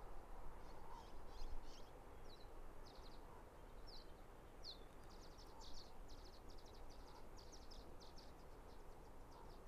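Small birds chirping in quick clusters of short, high notes over a faint low outdoor rumble.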